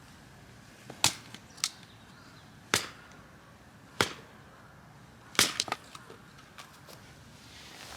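A series of sharp knocks or chops at uneven intervals of about a second, with a quick cluster of several strikes about five and a half seconds in.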